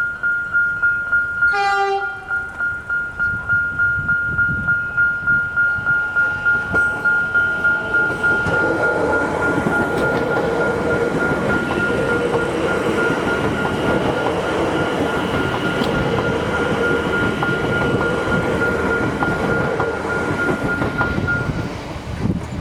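Electronic level-crossing bells (Barker Technics Type 1 e-bells) ringing in a rapid, even beat, with a short train horn blast about two seconds in. From about eight seconds in, a suburban electric train passes over the crossing, and the bells cut off near the end.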